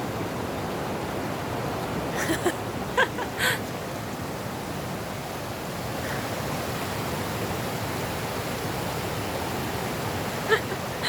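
Valley stream water rushing steadily, with a few brief sharp sounds about two to three and a half seconds in.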